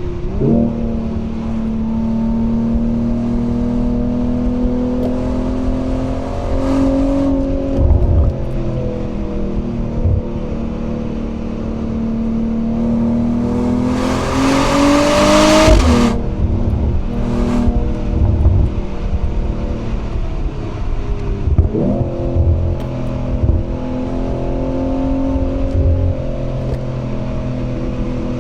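Mercedes-AMG CLE 53's turbocharged 3.0-litre inline-six heard through its exhaust while driving, mostly at a steady cruise. The engine note jumps up sharply about half a second in and again about three quarters of the way through, like quick downshifts. About halfway it climbs under acceleration to a loud rush of noise, then drops at the next gear change.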